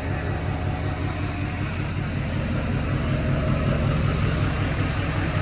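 A vehicle engine idling steadily, a low, even rumble that pulses at a regular beat.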